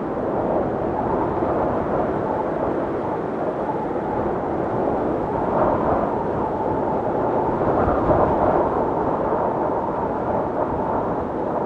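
Blizzard wind blowing hard and steadily, a deep whooshing that swells and eases in gusts.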